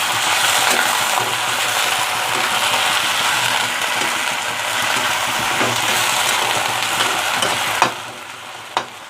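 Sliced onions and green chillies sizzling steadily in hot oil in a pan. About eight seconds in there is a sharp knock and the sizzle drops quickly to a much quieter level, with another click a second later.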